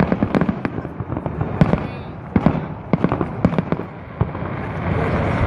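Fireworks going off: a quick, irregular run of sharp bangs and pops, many close together, easing off near the end.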